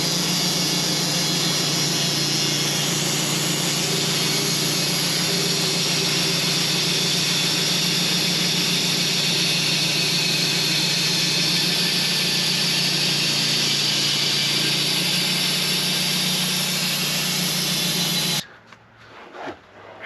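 Band sawmill running at full speed with its blade cutting through a honey locust log, taking off the first slab: a loud, steady engine drone under dense cutting noise. It cuts off suddenly about 18 seconds in.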